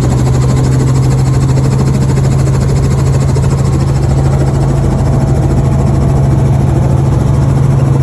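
Helicopter engine and rotor running, a loud, steady low drone with no change in pitch.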